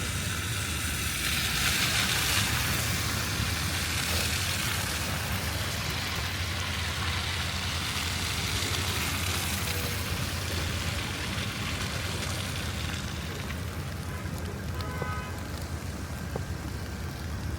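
Night street ambience in snowy weather: a steady low city rumble with the hiss of car tyres on wet, slushy pavement, swelling about two seconds in and again around nine seconds as vehicles pass.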